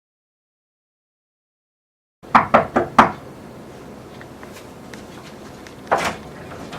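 Total silence for about two seconds, then four quick knocks on a door, a pause with room tone, and one more knock near the end.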